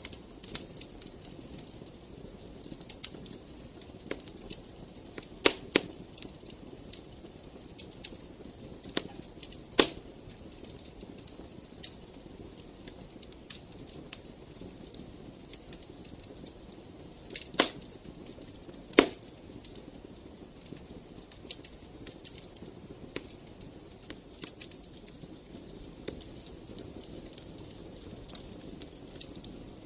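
Wood fire crackling: a run of irregular small snaps with a few louder pops, over a soft, steady low hiss of burning.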